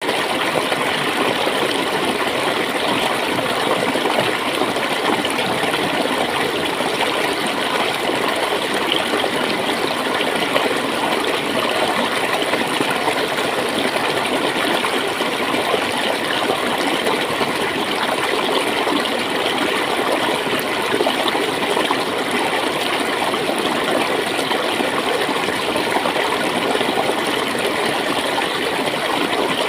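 Water flowing and gurgling steadily, a continuous dense rush with fine splashy texture.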